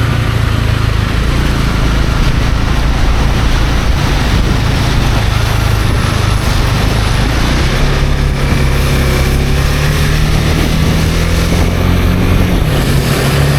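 Honda CB250R's single-cylinder engine running, its low tone steady and shifting pitch a couple of times, around eight seconds in and again near the end, under a steady hiss.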